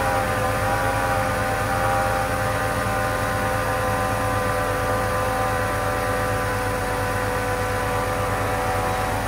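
Mercedes-Benz 3.2-litre straight-six engine idling steadily, its idle speed dropping a little at the start and then holding even.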